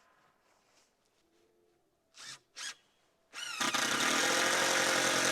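Power drill driving a screw into wood: two short trigger blips a little over two seconds in, then the motor spins up with a rising whine and runs loud and steady.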